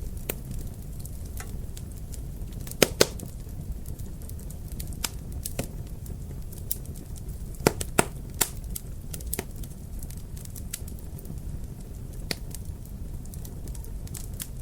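Wood fire crackling in a fireplace: a steady low rumble of the flames with scattered sharp pops and snaps, the loudest coming in quick pairs about three seconds and eight seconds in.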